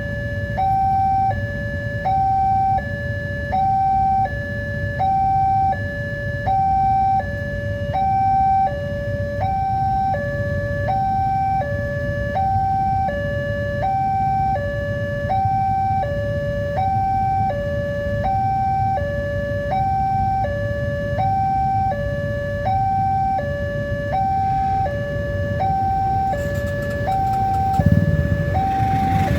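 Railway level-crossing warning alarm: an electronic signal switching steadily back and forth between a higher and a lower tone. A low rumble runs underneath, and near the end it grows louder as the train approaches the crossing.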